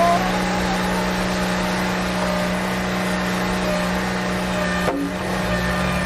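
Steady motor-like drone with a low hum, dipping briefly about five seconds in.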